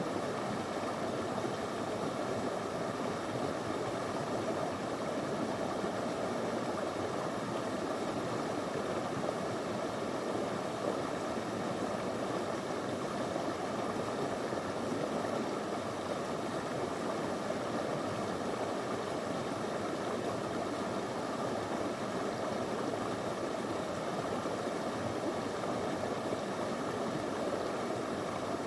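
Small stream of clear water flowing over stones, a steady rushing babble.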